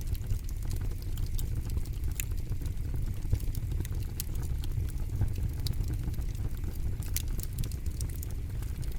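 Campfire burning with a steady low rumble and a constant scatter of crackles and pops, a few louder snaps among them.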